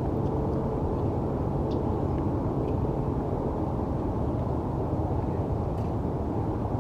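Steady low rumble of distant city traffic, with a few faint, short, high bird chirps here and there.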